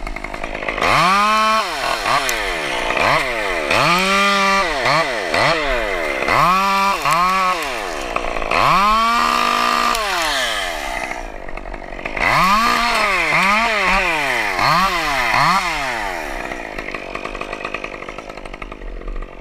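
Chainsaw engine revved in repeated bursts, its pitch climbing and falling about once a second, with a short lull near the middle and settling lower toward the end.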